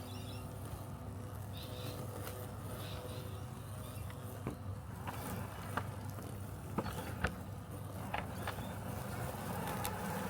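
Robotic lawn mower running with a steady low hum, with several sharp clicks in the middle and a slight rise in level near the end.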